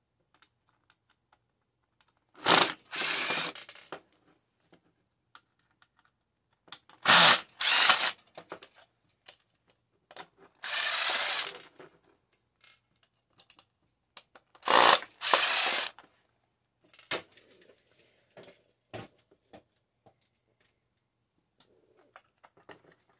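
Power drill-driver run in short bursts, several times, with small clicks and handling noise between: screws being backed out while a microwave is taken apart.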